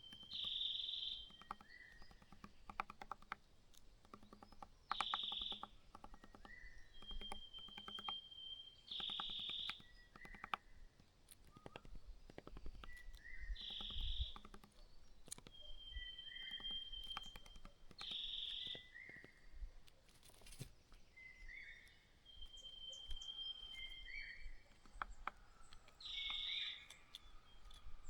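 A bird calling over and over, the same short phrase about every four to five seconds: a held whistle, a brief rough higher note, then a few short lower notes. Faint scattered clicks come between the calls.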